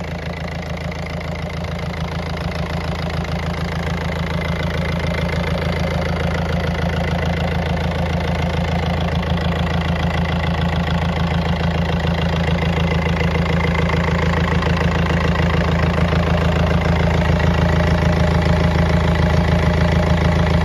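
Yanmar 4JH4 four-cylinder marine diesel idling with a steady, even beat, growing slowly louder.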